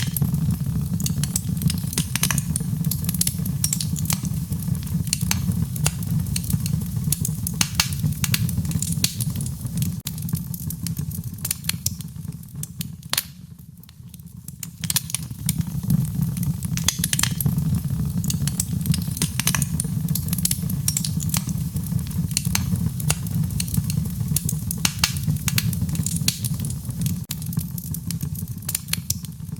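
Wood fire burning, with dense irregular crackles and pops over a steady low rumble; it eases briefly about halfway through, then picks up again.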